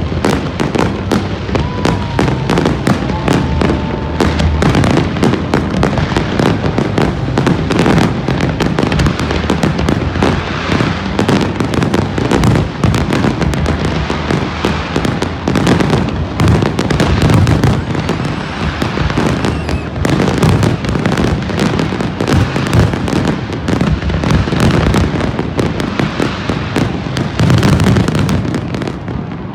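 Aerial fireworks display going off in a dense, continuous barrage of bursts and crackles, shot after shot with no pause.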